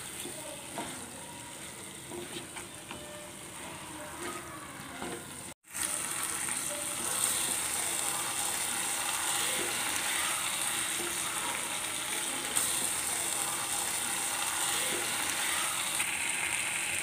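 Chicken pieces frying in masala in a kadai, sizzling steadily while a spatula stirs and scrapes them, with small clicks of the spatula against the pan. The sound drops out for a moment about five and a half seconds in and comes back as a louder, even sizzle.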